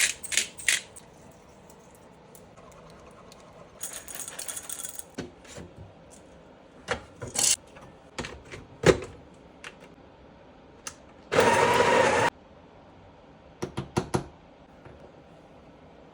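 Kitchen clatter: scattered sharp clicks, knocks and small rattles of things being handled, with one loud, dense burst of about a second roughly eleven seconds in.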